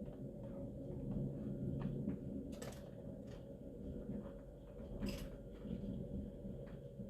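Low, steady rumble of a thunderstorm, with a few sharp knocks or clicks, two of them clearer than the rest, about two and a half and five seconds in.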